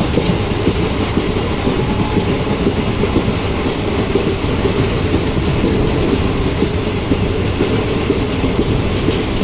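Passenger train of sleeper-class coaches running along the track: a steady rumble of wheels on rails.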